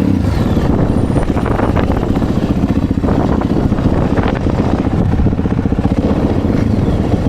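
A 450cc four-stroke dirt bike engine, freshly started, running steadily.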